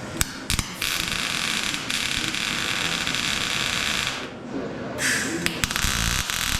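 Welding arc crackling and hissing while tacking a steel plate into a steel box: one weld run of about three and a half seconds, a short break, then a second run starting near the end.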